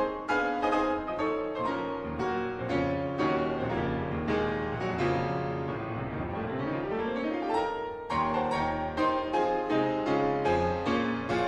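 Piano music: quick successions of notes, with a rising run about six to seven seconds in and a new phrase starting about eight seconds in.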